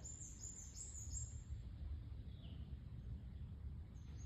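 Small birds chirping: a quick run of short, high, slightly falling notes in the first second and a half, then a single lower chirp about two and a half seconds in, over a steady low rumble of background noise.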